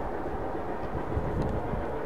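Narrow-gauge steam-era train running on the rails: a steady rumble of wheels and cars, with a few low thumps about a second in.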